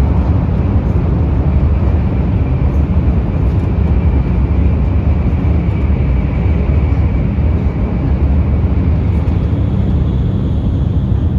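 Running noise of an N700-series Shinkansen heard from inside the passenger car: a steady, loud low rumble.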